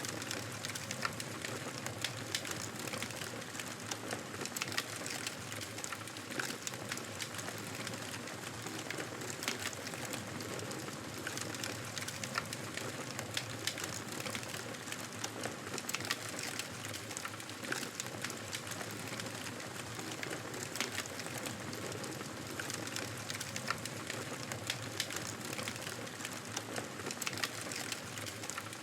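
Wood fire burning in a fireplace, a steady hiss of flames with frequent irregular crackles and pops.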